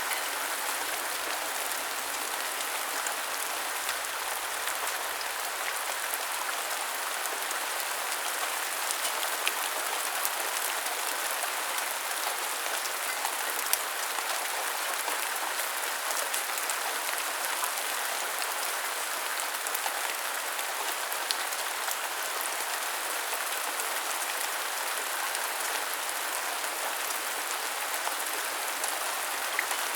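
Steady rain falling and pattering on hard surfaces, with scattered sharper drop ticks.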